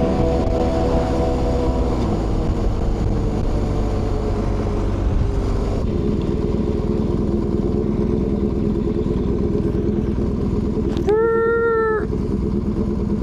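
Motorcycle engine running under way, its pitch shifting as the rider changes speed. Near the end a horn sounds once for about a second.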